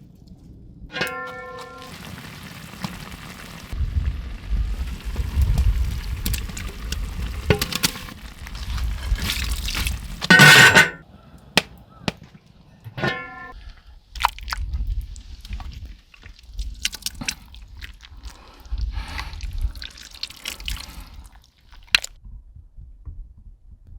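Soup liquid being poured and dripping, with a metal utensil ringing twice against a pot, and a louder clatter about ten seconds in, over a low uneven rumble.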